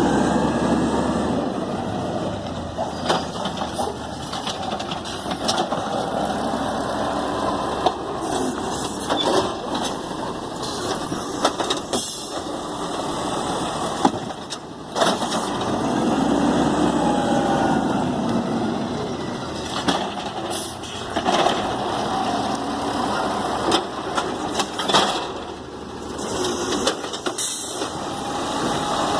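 Garbage truck working along a row of trash cans: its engine rising and falling in pitch as it revs, with repeated clanks and bangs scattered throughout.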